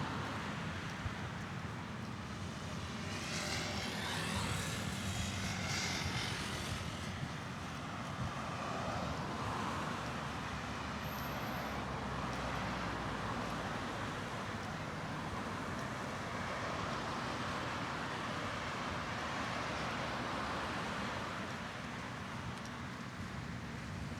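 Steady city road traffic noise with a low rumble, and a passing vehicle's hiss swelling and fading a few seconds in.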